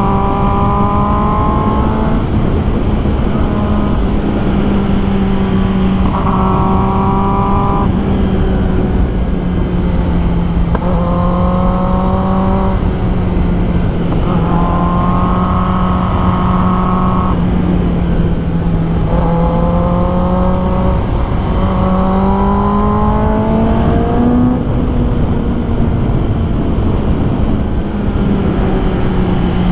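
Kawasaki ZX10R's inline-four engine running at steady, fairly high revs under wind rush. The pitch rises slightly at a few points as the throttle opens.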